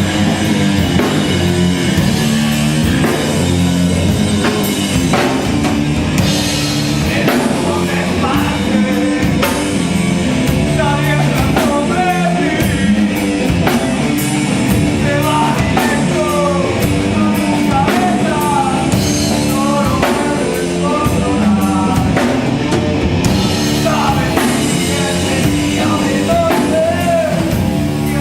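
Live heavy rock band playing at full volume: distorted electric guitars and a drum kit pounding steadily, with a shouted vocal coming in over it.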